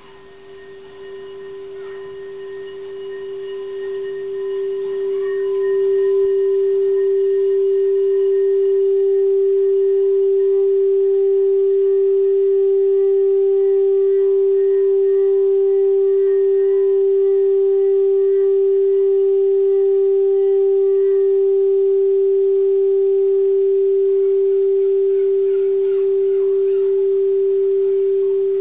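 Singing bowl ringing with one steady, pure tone. It swells over about the first six seconds, then holds level, with fainter higher overtones above it.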